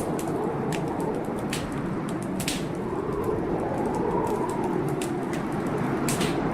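Wood fire crackling in a fireplace, with a few sharp pops, the loudest about two and a half seconds in. Behind it runs a steady storm noise of rain and wind.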